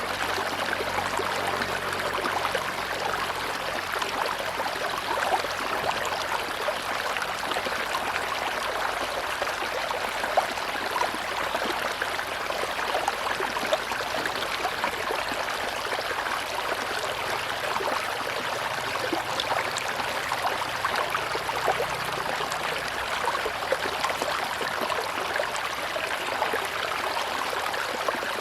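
River water running steadily, a continuous rushing with many small splashes and trickles in it.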